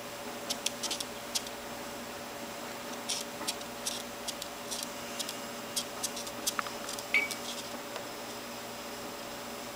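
A Senegal parrot making scattered small, sharp clicks and taps in quick clusters, with one brief high squeak about seven seconds in.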